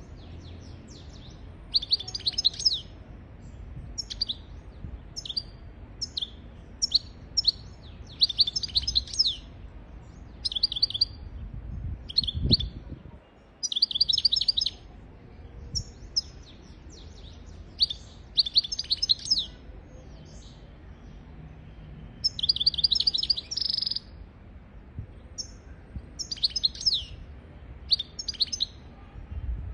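European goldfinch singing: short bursts of quick, high twittering notes, repeated with brief pauses between phrases. There is a single low thud about twelve seconds in.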